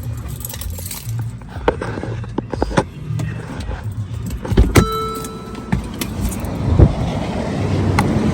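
Scattered clicks and handling knocks with a brief pitched beep about five seconds in, then road noise of a passing vehicle building up louder toward the end.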